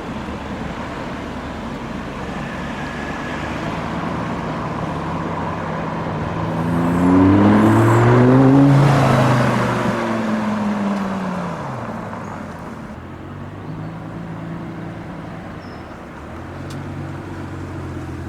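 Mk1 Lamborghini Gallardo's V10 engine as the car arrives. It grows louder and rises in pitch to a peak about halfway through, then drops in pitch and settles into a quieter, steady run as it pulls up.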